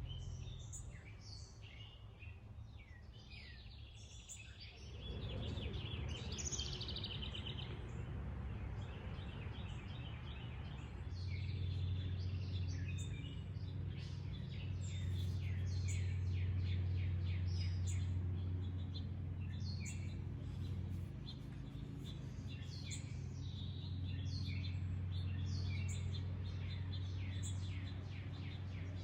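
Wild songbirds chirping and trilling in many short calls throughout. About five seconds in, a low rumble comes up, and from about a third of the way through a steady low hum underlies the birdsong and is the loudest sound.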